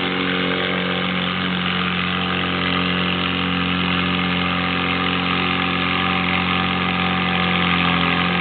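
Modified Allis-Chalmers pulling tractor's engine running flat out at a steady, high pitch while it drags the weight sled down the track.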